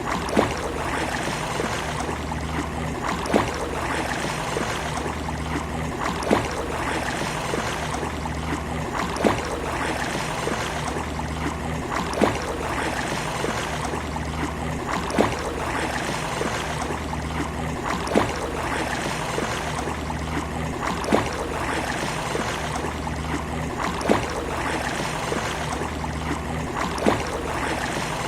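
Steady wash of sea water on a beach, with a sharp click that repeats about every three seconds, the whole pattern cycling with machine-like regularity.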